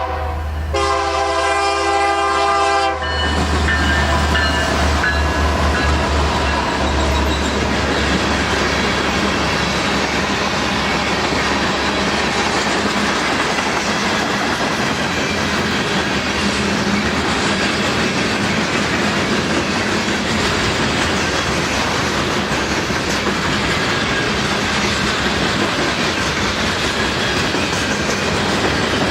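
Diesel locomotive's multi-chime air horn: a blast breaks off just at the start, then a second blast of about two seconds. It is followed by the train rolling past close by, with steady rail noise and the clickety-clack of wheels over the rail joints.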